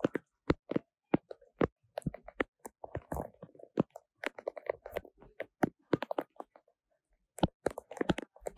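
Heavy rain with raindrops striking the phone's microphone: irregular sharp taps and pops, several a second.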